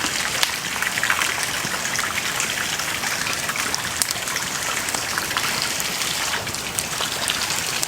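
Wood bonfire burning with a dense, continuous crackle and many small sharp pops, a couple of them louder, about half a second in and about four seconds in.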